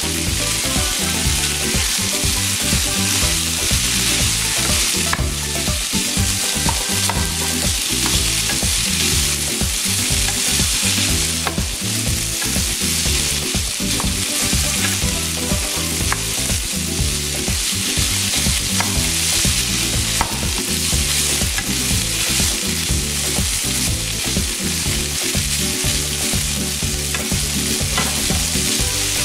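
Chicken pieces sizzling as they fry in a hot frying pan, stirred and pushed around with a spatula, with occasional small clicks of the spatula against the pan.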